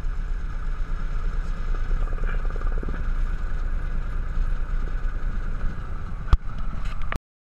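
Cessna 172's piston engine running with a steady drone. A sharp click comes about six seconds in, and then the sound cuts off abruptly.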